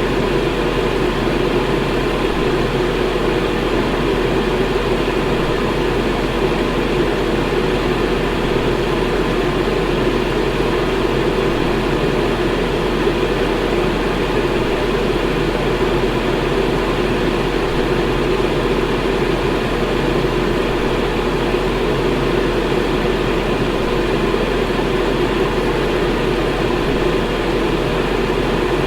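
Electric fan running at a steady speed: a constant whooshing rush of air with a low motor hum and no changes.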